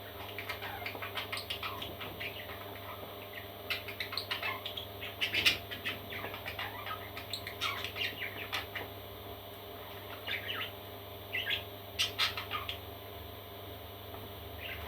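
Parrot chicks chirping and squawking: bursts of short, rapid calls with brief pauses between them, over a steady low hum.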